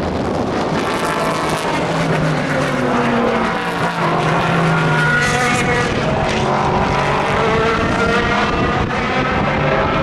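Several endurance race car engines running hard together, their overlapping notes falling and rising in pitch as the cars pass and change speed.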